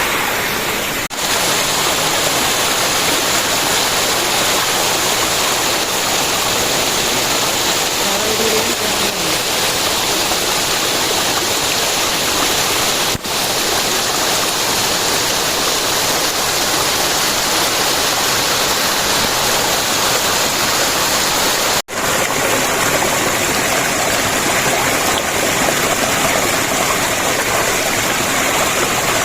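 Steady, loud rush of flowing water, even and unbroken apart from three very brief drop-outs.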